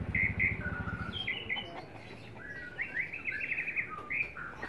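Several small birds chirping and singing in short repeated phrases, with a quick trill about three seconds in. A low, rapid pulsing hum is under the calls in the first second, then fades.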